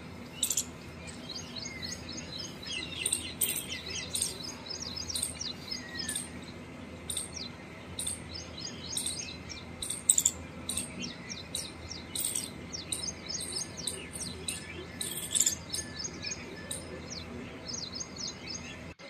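Small birds chirping, many short quick calls in rapid runs, over a faint steady low background hum.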